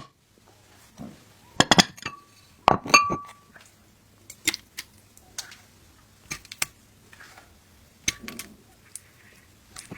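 Clinks and taps of tableware, a spoon or utensil against a dish, as a cat's meal is put together. The loudest strikes come about two and three seconds in, two of them ringing briefly. Lighter taps follow.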